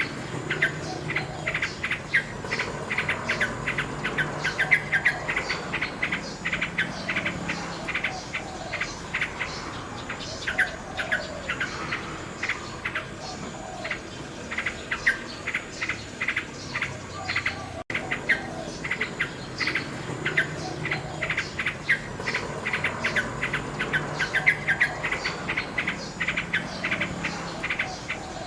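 Nightingale singing: fast runs of short, sharp repeated notes mixed with lower warbled phrases, in an ongoing stream. The sound drops out for an instant about two-thirds of the way through.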